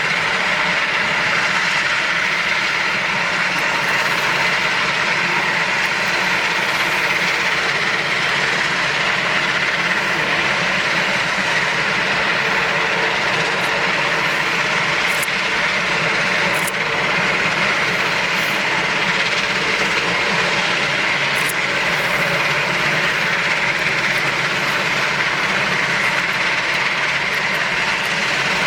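Aircraft engines running steadily at a constant idle-like setting: an even rush with several fixed whining tones and no change in pitch.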